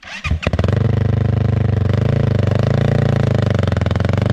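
Off-road motorcycle engine starting up: it fires a few times in the first half second, catches, and then runs steadily close by as a fast, even stream of firing pulses, with small rises and falls in revs.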